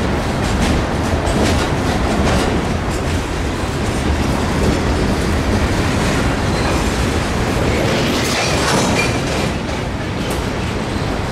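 Loaded open-top hopper cars of a freight train rolling past on the yard tracks: a steady rumble of steel wheels on rail, with wheels clicking over the rail joints in the first few seconds.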